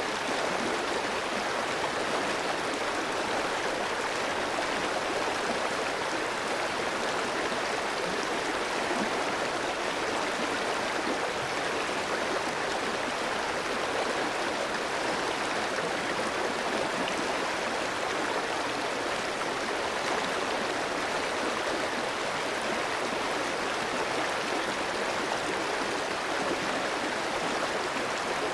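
Clear mountain stream flowing steadily over rocks, an even rushing and babbling of water.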